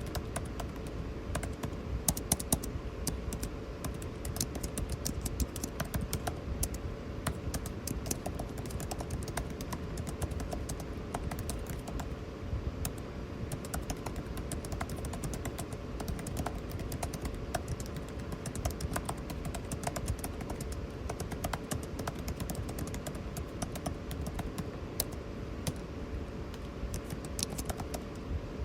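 Computer keyboard typing: a continuous, irregular stream of key clicks, with a few sharper strokes about two seconds in, over the steady hum of an air conditioner.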